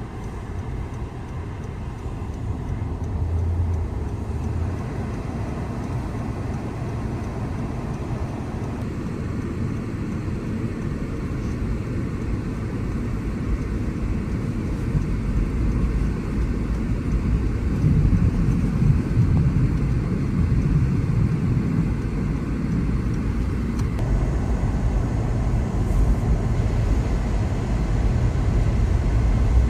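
Car driving on a snowy road: a steady low rumble of engine and road noise with no distinct events, growing louder from about halfway through.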